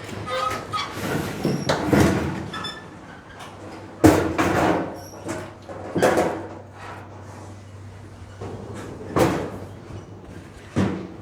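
A series of sharp knocks and thumps, about five louder ones a couple of seconds apart with lighter clatter between, as metal toolbox parts and fittings are handled.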